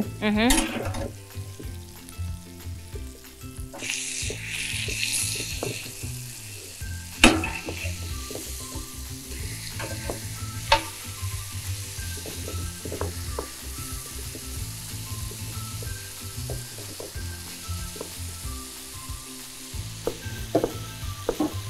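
Chicken frying in a hot cast-iron grill pan, sizzling steadily and loudest a few seconds in. Two sharp knocks and several lighter clicks of kitchen utensils come through. Soft background music with held notes plays underneath.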